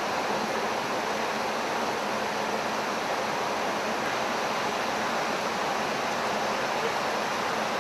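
Steady rushing noise of airflow and engines on the flight deck of a Boeing E-3 Sentry in flight.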